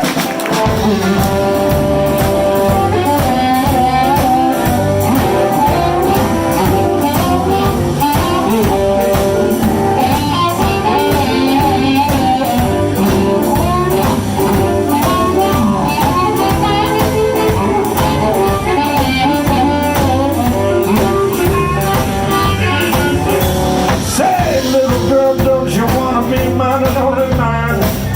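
Live blues band playing the instrumental opening of a song: a lead guitar line over bass and a steady drum beat.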